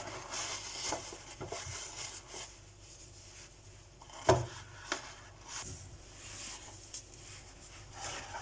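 Food storage containers being handled and set down on refrigerator shelves: light rustling with scattered small clicks and knocks, the sharpest knock about four seconds in and a smaller one just after.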